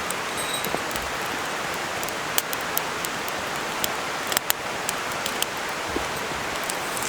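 Wood campfire crackling: a steady hiss with irregular sharp pops and snaps, a few each second.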